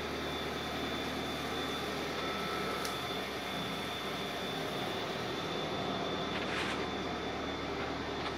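A Nissan sedan's engine idling: a steady, even hum with a faint high whine over it and a couple of faint brief ticks.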